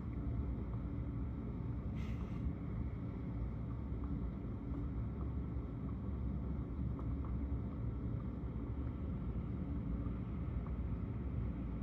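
Steady low rumble of rain and wind heard from behind a window, with a brief hiss about two seconds in.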